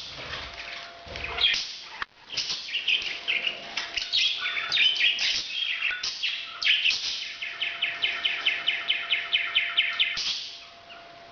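Pet parrot chirping and chattering in quick, dense calls, its breeding-season calling, ending in a fast even run of short chirps about five a second before it stops near the end. A faint steady hum runs underneath.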